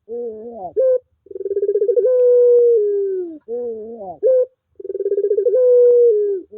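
Puter pelung dove cooing: two long drawn-out coos, each opening with a rapid stutter, held on a steady note and then dropping, and each preceded by a short wavering phrase that rises at its end.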